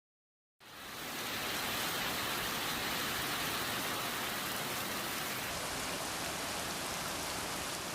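Heavy rain falling steadily, an even hiss that fades in about half a second in.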